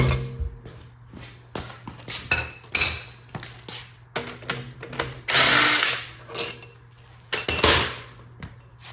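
Handheld power tool, run in two short trigger bursts to take fasteners off a Ford 5.0 engine; the first burst has a rising whine as the motor spins up. Light clicks and knocks of tools and metal parts fall between the bursts.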